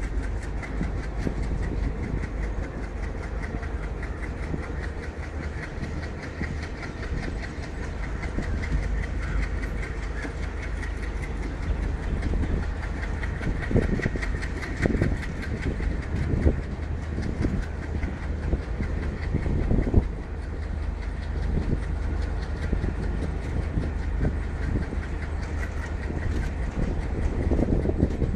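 Passenger train running, heard from aboard: a steady low rumble with a rapid clickety-clack of wheels over the rails, and a few heavier knocks around the middle.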